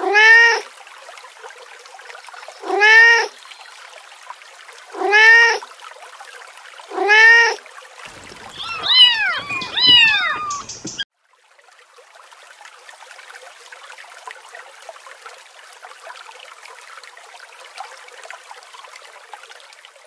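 Kittens meowing: four single high meows about two seconds apart, each rising and falling in pitch, then a quick flurry of overlapping meows. After about eleven seconds the meows stop and only a faint steady hiss remains.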